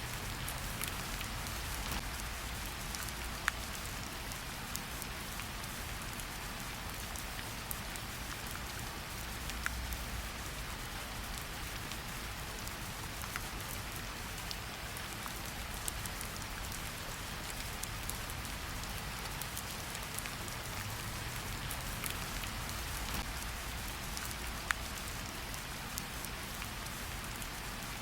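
Steady rain falling in a forest, an even hiss with many scattered drops ticking close by.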